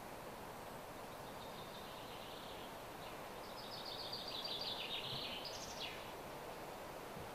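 A songbird singing twice over a steady outdoor hiss. First comes a short run of quick repeated notes, then a longer run that drops in pitch and ends in a brief higher flourish.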